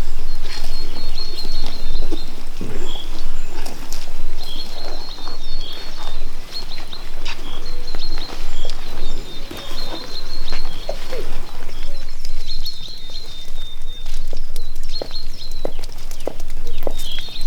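Birds chirping over and over in short, high notes, with scattered clicks and taps throughout.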